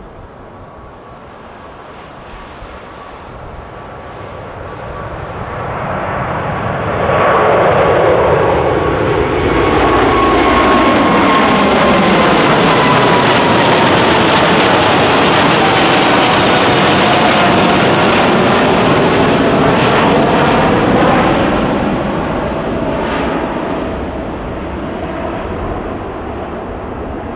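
Boeing 747-8F freighter's four GEnx engines passing close overhead. The sound builds, stays loud for about fifteen seconds, then fades, with a whining tone that slides slowly down in pitch as the aircraft goes by.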